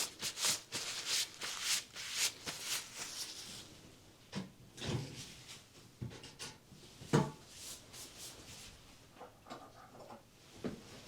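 Nitrile-gloved hands being rubbed and wiped clean of excess oil, a quick run of scratchy rubbing strokes. This is followed by a few separate soft knocks and taps of objects being handled.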